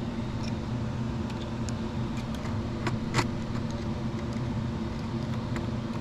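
Steady low background hum, with a few small metallic clicks about three seconds in from a screwdriver and wire being handled at a power supply's screw terminal.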